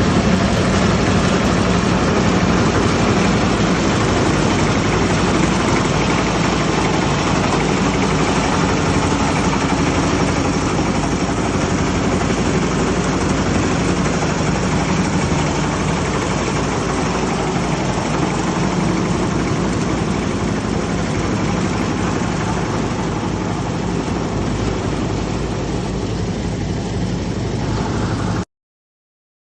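An engine running steadily at a constant speed, with a slight fade in level, cutting off abruptly near the end.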